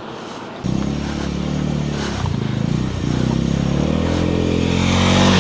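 Motorcycle engine running under throttle. It cuts in suddenly about half a second in, eases briefly around three seconds in, then pulls steadily and grows a little louder.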